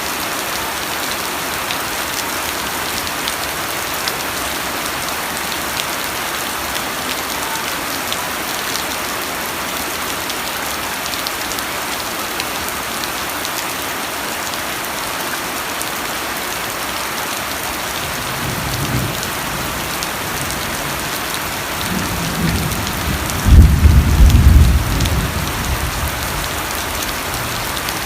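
Steady rain falling on a surface. A low thunder rumble builds about two-thirds of the way through and peaks loudly near the end before fading back under the rain.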